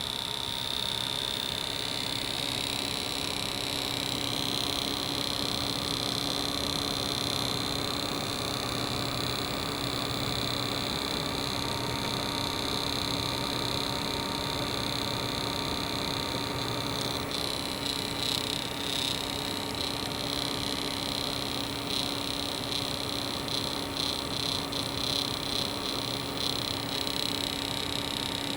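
Custom gaming PC giving off a high-pitched electrical whine over a lower steady hum; the whine's upper tones shift in pitch, and about two-thirds of the way through it turns into a rapid fluttering buzz. It is the fault noise that appears mainly while gaming and that swapping in a second power supply has not cured.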